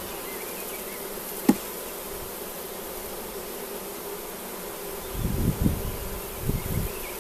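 Honeybees buzzing steadily in an opened hive. A single sharp click comes about one and a half seconds in, and low rumbling knocks follow near the end.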